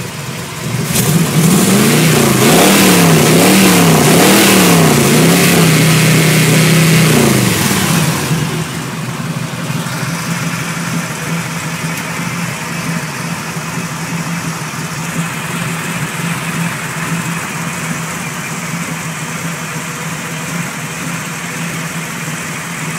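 1922 Ford T-bucket hot rod's engine, fitted with a gear-drive timing set, revved up and down several times over about seven seconds, then dropping back to a steady idle. It runs quietly with no knocking.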